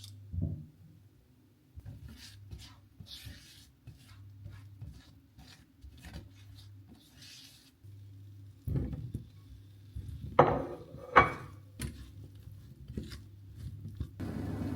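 Household handling sounds: scattered soft knocks and rubbing over a low steady hum, with two louder clatters, like dishes or utensils set down, about ten and eleven seconds in. A steady noise comes in near the end.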